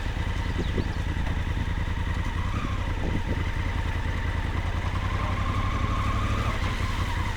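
Honda Africa Twin adventure motorcycle's parallel-twin engine running steadily under way, a continuous low rumble.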